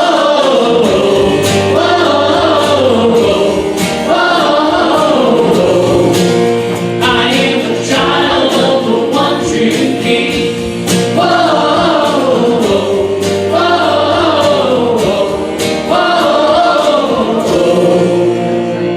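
A choir singing a hymn, with sung phrases that rise and fall continuously.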